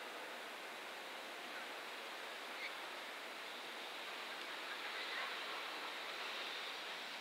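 Faint, steady rushing noise of a freight train rolling slowly toward the listener behind an EF210 electric locomotive, growing slightly louder, with a few faint short chirps.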